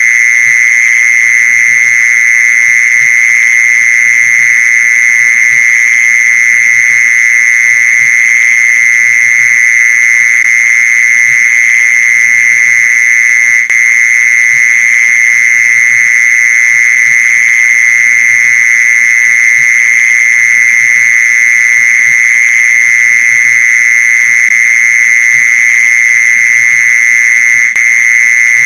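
Mole cricket calling: a loud, steady, unbroken high-pitched trill that holds one pitch throughout, with two momentary dips.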